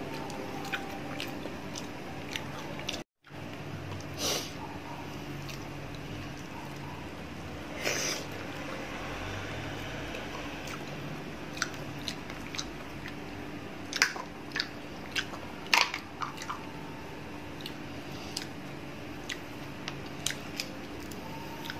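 A person chewing food close to the microphone, with scattered sharp clicks and small taps from handling fish and shells on a plate, over a steady low hum. The sound drops out to silence for a moment about three seconds in.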